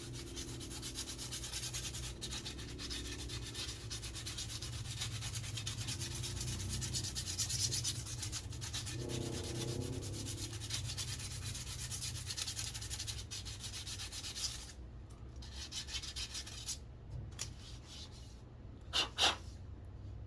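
100-grit sandpaper rubbed rapidly back and forth along a wooden walking stick. The strokes run continuously until about three quarters of the way in, then give way to a few separate rubs, with two short, louder scrapes near the end.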